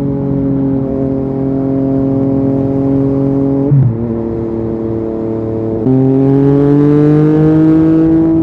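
Yamaha XSR900's three-cylinder CP3 engine through an Akrapovic carbon full exhaust under way. The pitch eases down slowly, then there is a gear change about four seconds in. From about six seconds the engine is opened up, louder, its pitch climbing steadily.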